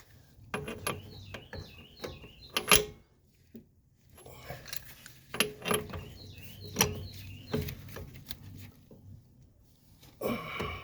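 Metal hand tools clinking and knocking as a breaker bar and socket are worked on a front-suspension nut of a 2000 Kia Sportage, a run of sharp clicks with the loudest knock a little under three seconds in.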